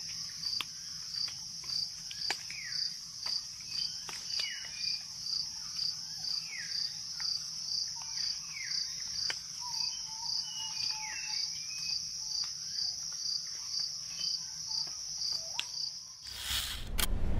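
Night-time insect chorus: crickets chirping in a steady high, pulsing trill, with scattered short, falling chirps from other small animals. Near the end a loud rushing noise suddenly takes over.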